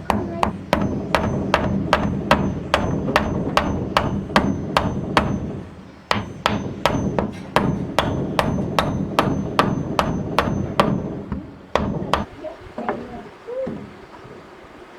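Hand hammer blows in a steady rhythm, about two to three a second, with a short break near the middle. The blows stop about twelve seconds in.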